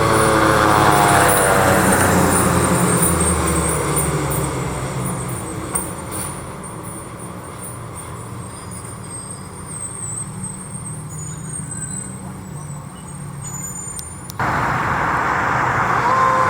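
Emergency vehicle siren winding down in the first second over a heavy engine rumble, which fades away over the next few seconds to quieter traffic noise. About 14 seconds in the sound jumps abruptly louder, and another siren starts wailing near the end.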